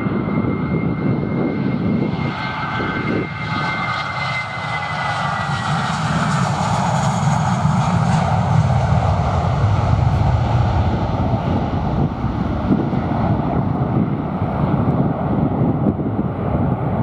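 Airliner jet engines passing. The engine noise carries a thin high whine that slides slightly down in pitch over the first few seconds, then swells into a loud, deep rumble through the middle and later part.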